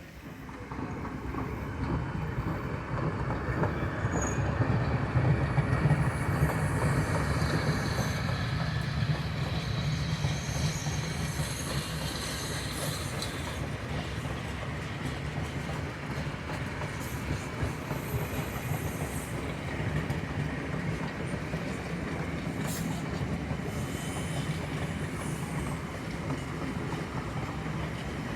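Steam train passing. The noise swells about a second in and is loudest a few seconds later, then settles into the steady rolling of the cars on the rails, with brief high wheel squeals.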